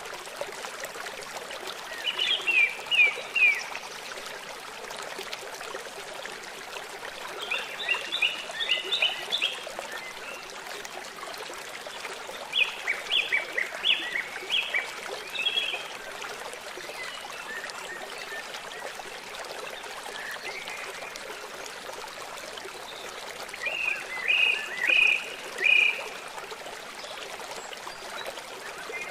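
A small stream trickling steadily, with a songbird singing four short phrases of rapid, high, repeated notes that stand out above the water.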